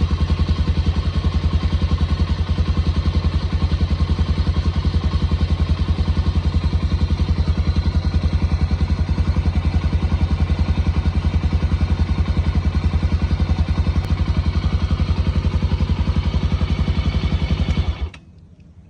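Loncin FE 250 (171YMM) single-cylinder four-stroke motorcycle engine running steadily at operating temperature with an even, unchanging beat. It cuts off abruptly near the end as the engine is switched off.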